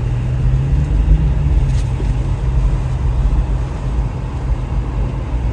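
Car engine and road noise from a moving car, a steady low drone.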